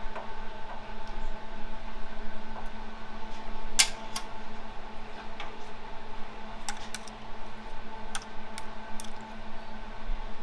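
Metal parts and hand tools clinking and knocking now and then during the teardown of an automatic transmission, with the sharpest knock about four seconds in and several lighter clicks later, over a steady background hum.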